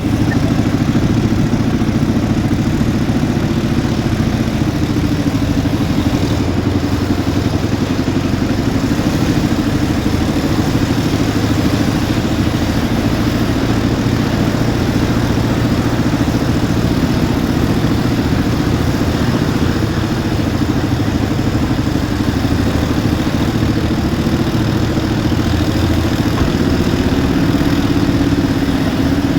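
Quad bike engine running steadily while riding, loud and close, with no pauses.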